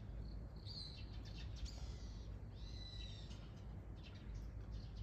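Wild birds calling outdoors: three or four short, high calls, the last one longer, over a steady low background rumble.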